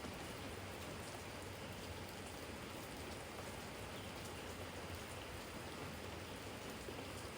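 Steady rain falling on a garden jar and the yard around it: an even hiss with faint ticks of individual drops.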